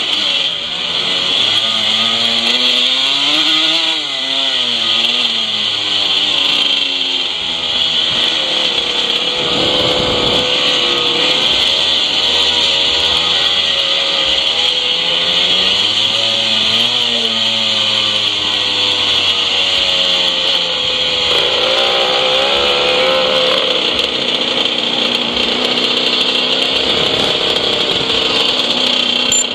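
Classic 125cc two-stroke motocross bike engine racing, revving hard and shifting, its pitch rising and falling again and again through the lap, over a constant hiss.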